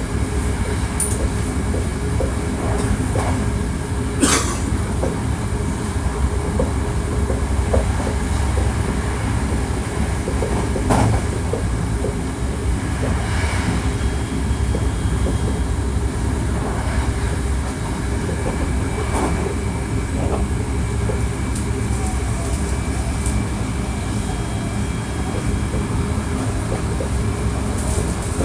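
Hankyu 1300 series electric train running, heard from inside the car: a steady rumble of wheels on rail with scattered clicks from rail joints and faint steady tones from the drive equipment.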